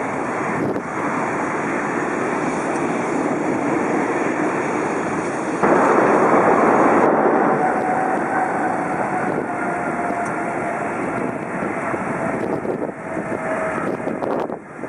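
Jet airliner engines running as a loud, steady roar that jumps sharply in level about six seconds in, with a faint tone falling slowly in pitch through the second half.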